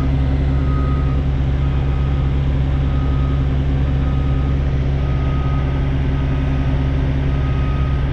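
Semi truck's diesel engine running steadily, heard from inside the cab, with a reverse alarm beeping about once a second.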